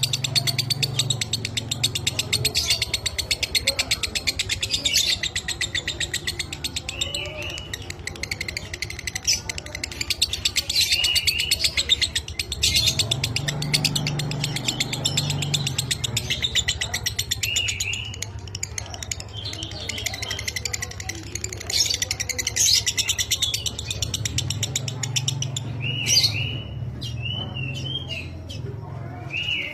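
Lovebird of the small, dry-voiced 'minor kering' type giving a long, rapid chattering trill (the 'ngekek' song), broken every few seconds by short chirped calls.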